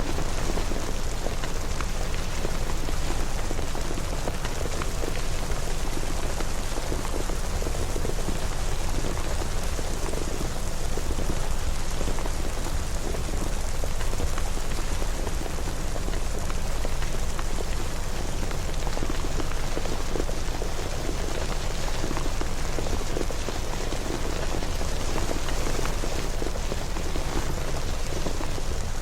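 Steady rain falling and pattering on surfaces, a dense even hiss with fine drop flecks and a low rumble underneath.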